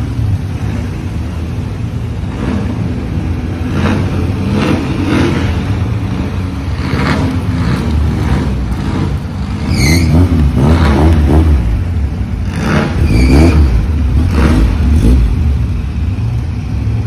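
Car engines running as cars roll in slowly one after another, with a low steady rumble and surges of revving about ten seconds in and again near the end. A short high chirp sounds about ten seconds in.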